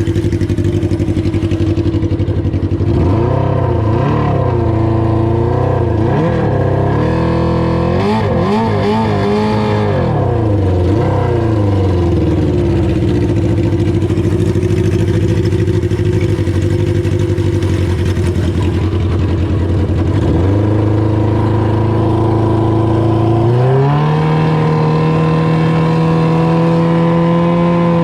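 600cc jet boat engine running on a test of its new gear ratio: it is revved up and down several times in the first ten seconds, settles to a steady pitch, dips briefly, then opens up about 23 seconds in and holds higher revs that keep slowly climbing.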